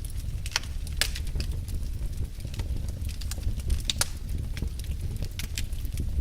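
Wood fire in a fireplace crackling, with irregular sharp pops and snaps over a steady low rumble of the flames; the loudest pops come about a second in and at about four seconds.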